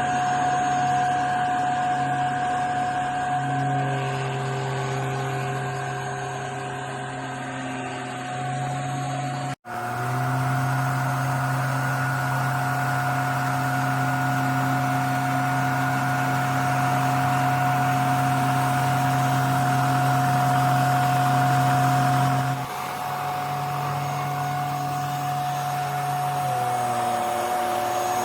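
HYCHIKA handheld mattress vacuum cleaner's motor running with a steady hum and whine. The sound cuts out for an instant about ten seconds in, and its pitch wavers near the end.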